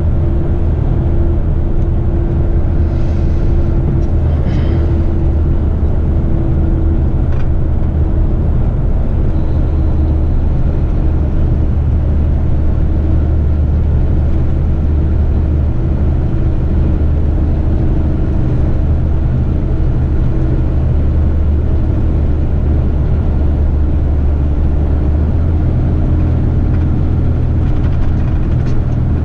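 Heavy truck's diesel engine running steadily under way, a loud low drone whose note shifts a few seconds before the end.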